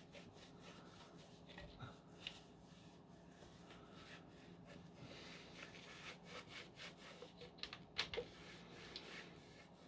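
A cloth wiping out the plastic dust bin of a Dyson V10 vacuum: faint, uneven rubbing against the plastic, with a sharper knock about eight seconds in.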